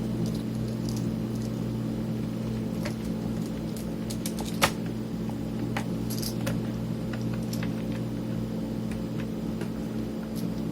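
Scattered light clicks and taps of small screws, metal parts and tools being handled while an electronics unit is put back together, the sharpest about halfway through, over a steady low hum.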